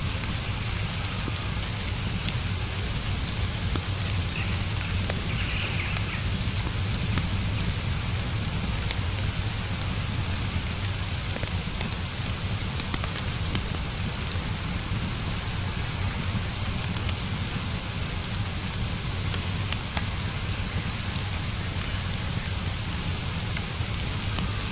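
Steady rain falling, with scattered sharp drop ticks and faint short high-pitched notes now and then.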